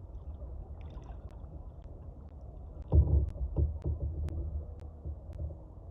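Water sounds around a kayak on a lake: low steady lapping, then a run of heavier splashes or knocks starting about three seconds in.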